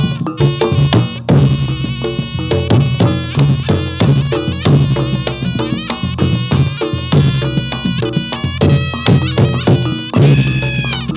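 Traditional Javanese reog music accompanying a jathilan dance: drums beating a busy rhythm under ringing tuned percussion and other pitched instruments.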